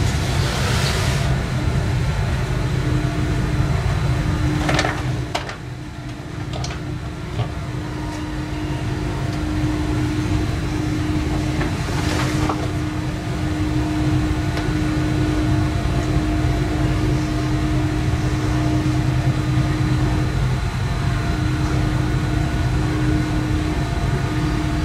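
Inside a moving electric S-Bahn commuter train: steady rumble of the wheels on the track under a steady electric hum, with a few brief rushing and clicking noises near the start, around five seconds and around twelve seconds.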